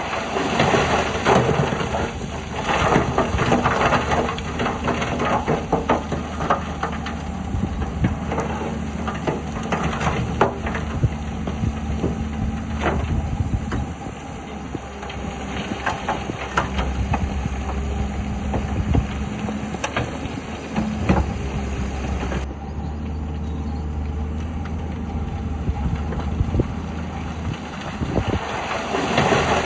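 Heavy earthmoving machinery working: a diesel engine running steadily under load, with frequent irregular crunches and clanks of rock and steel. The sound changes abruptly about two-thirds of the way in.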